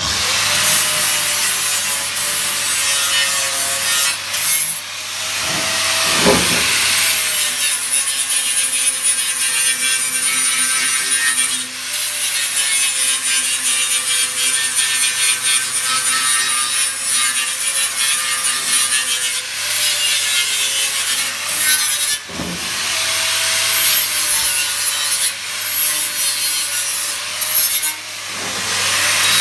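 Handheld abrasive power tool grinding or sanding the sheet steel of a motorcycle fuel tank, its motor whining steadily under a continuous rasp and easing off briefly a few times.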